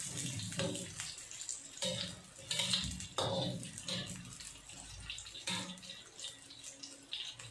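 Sliced garlic, shallots, ginger and onion sizzling in hot oil in a wok, stirred by a spatula scraping the pan in short strokes about once a second. The aromatics are being sautéed until they turn golden.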